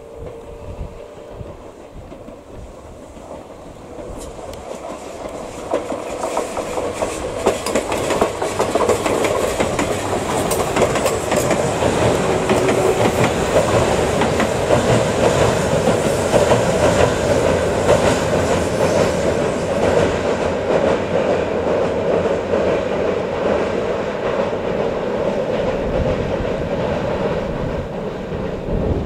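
Tobu 634-series electric train crossing a steel truss bridge: wheels clattering over the rail joints with a rumble from the bridge, growing louder over the first ten seconds or so and then holding.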